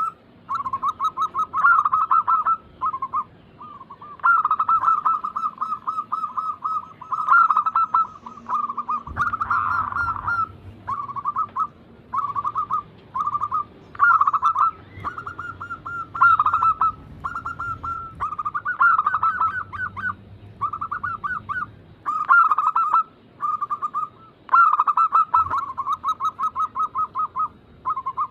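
Zebra doves (perkutut) cooing: runs of quick, repeated cooing notes in long phrases broken by short pauses.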